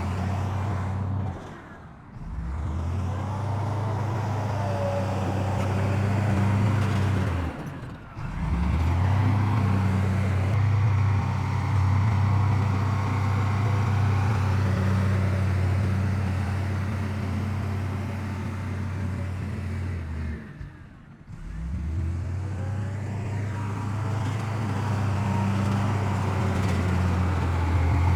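Heavy diesel earthmoving machinery, dump trucks or a bulldozer, running with a steady low engine drone. The sound drops out briefly three times and then resumes.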